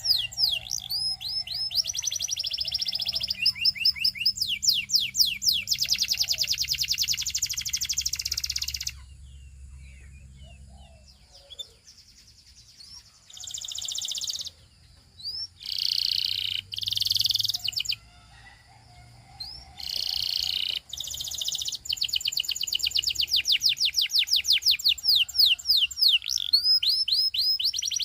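Canary singing: long, fast trills of repeated down-sweeping high notes, a pause of a few seconds midway broken by short bursts of song, then long rapid trills again toward the end.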